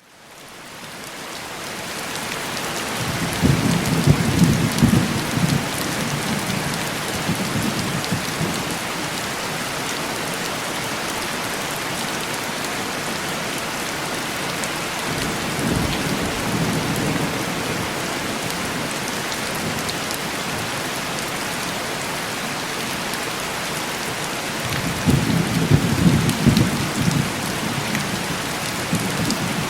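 Heavy rain on window glass, a steady hiss that fades in over the first couple of seconds. Thunder rolls in deep rumbles about three seconds in, more faintly around sixteen seconds, and again near the end.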